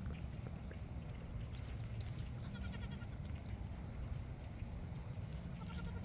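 A goat bleating: a wavering call about two and a half seconds in and a shorter one near the end, over a steady low rumble.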